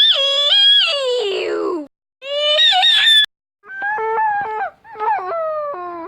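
High-pitched wordless vocal calls, four in a row, each made of held notes that jump up and down in pitch; the first call ends in a long downward glide.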